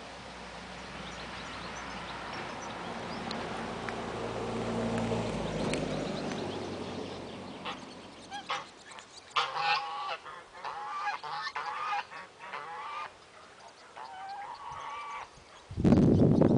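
Geese honking in a run of short calls over the second half. Before them a broad rush of noise swells and fades, and near the end a sudden loud, low-pitched sound cuts in.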